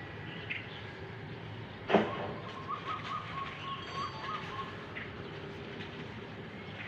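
Small birds chirping over a steady background hum of city noise, with one sharp knock about two seconds in, followed by a warbling call for a couple of seconds.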